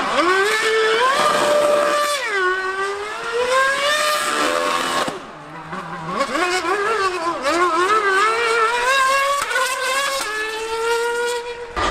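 High-revving racing engine accelerating hard through the gears, its pitch climbing and dropping at each upshift. It fades about five seconds in, then a second run of rising and falling revs follows and settles to a steady pitch near the end.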